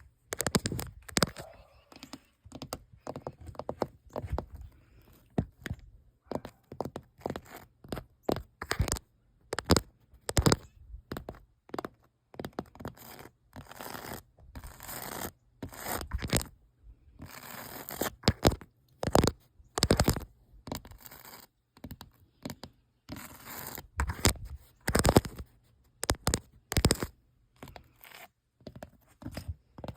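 Old paint being scratched and peeled off the weathered surface of an old building, in an irregular run of short, sharp scratching and tearing crackles with brief pauses between them.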